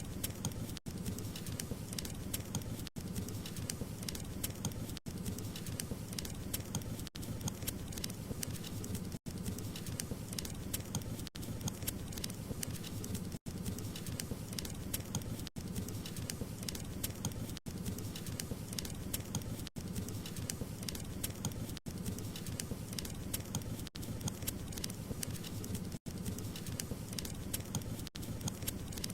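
Wood fire crackling: a dense run of small pops and snaps over a low steady rumble, broken by brief dropouts about every two seconds.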